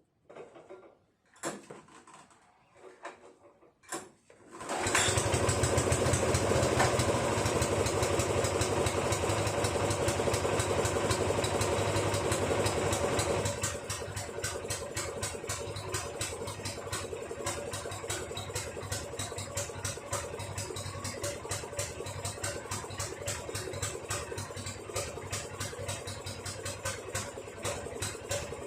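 Yanmar Je-80HE snowblower engine starting after a few light knocks and running at high speed. After about nine seconds it settles down to a lower, steady idle.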